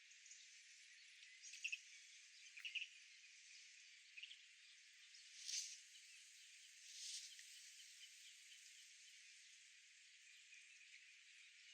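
Faint outdoor park ambience: a steady high hiss with a few short bird chirps early on, and two brief soft rushes of noise around the middle.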